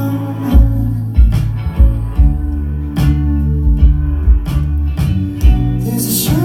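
Live band music in an instrumental passage between sung lines: sustained bass notes under a steady drum beat, with guitar.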